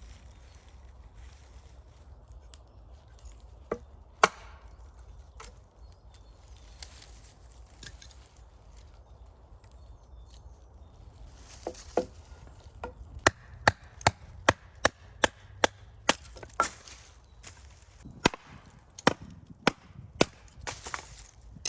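Chopping strikes on wood: two sharp blows about four seconds in, then a steady run of strokes at about two a second through most of the second half.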